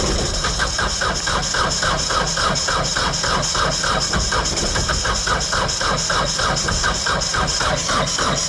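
Starter motor cranking a Kubota B-series compact tractor's diesel engine, with an even beat of about five compression pulses a second, without the engine catching. It is a hard cold start on summer diesel in freezing weather, which the owner blames on the summer diesel and on water in the fuel.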